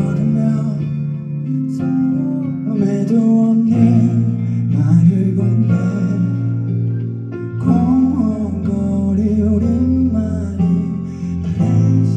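Live band music: a song played with guitar, with a singing voice carrying the melody.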